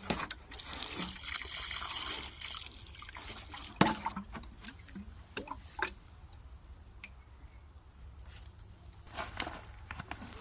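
Water splashing and dripping: a steady splash for the first few seconds, then scattered drips and small splashes, with one sharp click about four seconds in.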